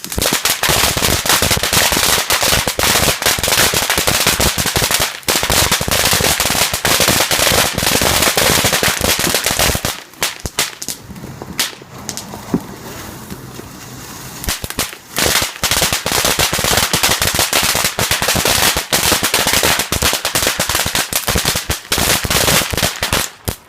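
Fireworks going off in a dense, rapid crackle of bangs. They ease off about ten seconds in, resume around fifteen seconds, and stop suddenly near the end.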